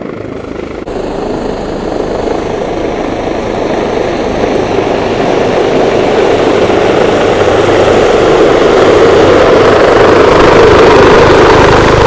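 Police helicopter coming down low and close, its rotor and engine noise growing steadily louder until it is very loud.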